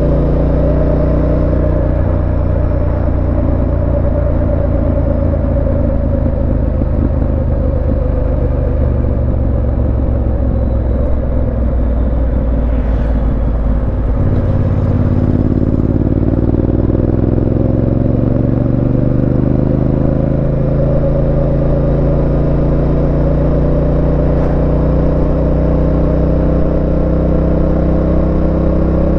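Yamaha Ténéré 700's 689 cc parallel-twin engine running on the road, heard from the rider's seat. Its note sinks slowly for the first half, dips briefly about halfway through, then climbs steadily as the bike accelerates.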